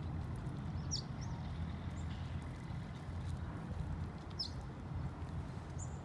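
A bird chirping twice, short high calls about a second in and about four and a half seconds in, over a steady low rumble.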